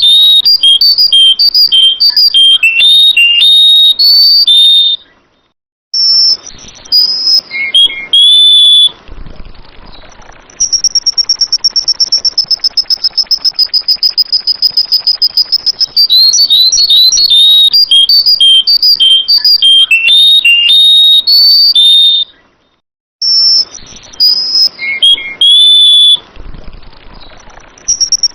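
Sooty-headed bulbul (kutilang) singing in bursts of rapid, loud chirping notes and short whistled phrases, broken by a long steady high trill. The sequence repeats about every 16 seconds, with brief silent breaks, as in a looped song recording.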